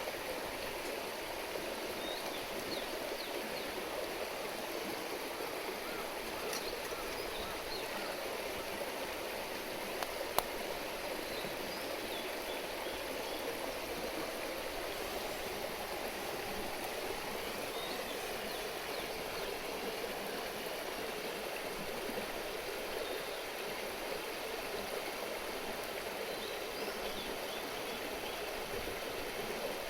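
Steady rush and burble of a river stream. There is one sharp pop about ten seconds in, and a few faint high chirps.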